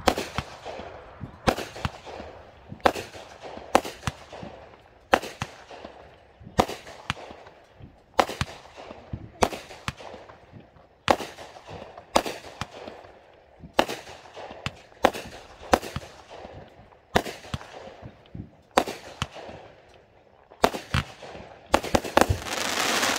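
Consumer fireworks going off in a steady series of sharp bangs, about one a second, each trailing off after the blast. Just before the end a louder, continuous rush of noise builds under the bangs.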